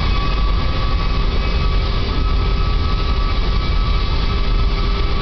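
Rolls-Royce Trent 500 three-shaft turbofan running steadily at a set run-up power on the ground: a loud, even rumble and hiss with several constant whining tones, not changing in pitch or level.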